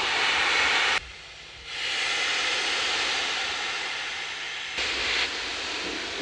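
Narrow-gauge Garratt steam locomotive letting off a steady hiss of escaping steam. It breaks off abruptly about a second in, goes quieter for under a second, then swells back.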